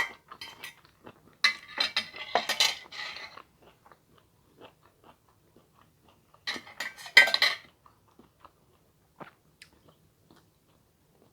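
Cutlery clinking and scraping against a plate as food is scooped up during eating, in two clusters: about a second and a half in and again around seven seconds in, with scattered faint ticks between.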